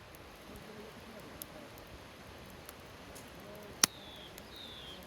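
Wood campfire burning with faint crackles and one loud sharp pop a little under four seconds in. Just after the pop, a series of short, high, falling chirps repeats about twice a second.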